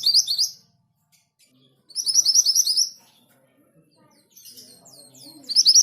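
Orange minivet singing: phrases of rapid, high, rising whistled notes, each lasting about a second. One phrase comes at the start, another about two seconds in, and a third near the end after some softer notes.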